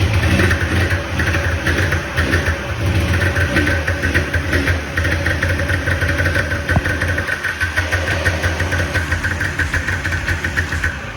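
Two-stroke twin engine of a 1999 Polaris 550 Super Sport snowmobile running steadily, just after its two gummed-up carburetors were cleaned and put back in.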